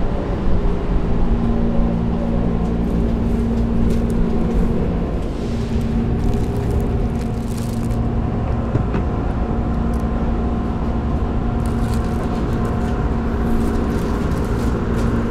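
Steady hum of a stopped Hanshin commuter train's onboard equipment, with a few held tones over a low rumble, heard from inside the car at an underground platform.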